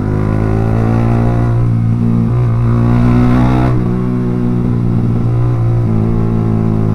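Yamaha R15 V3's single-cylinder engine running through a Proliner aftermarket exhaust while riding, a loud exhaust note that is berisik banget (really noisy) once hot. The throttle opens a little past two seconds in and the engine note climbs, then eases off sharply almost four seconds in and settles back to a steady cruise.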